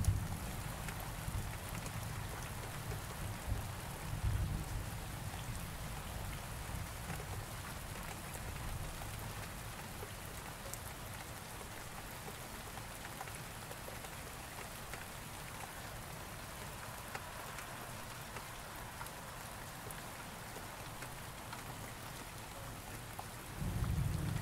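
Steady rain falling, with low thunder rumbling and dying away over the first few seconds, and another thunder rumble starting near the end.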